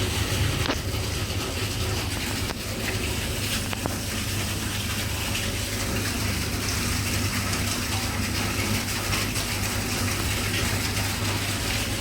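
Steady hissing rush over a constant low hum.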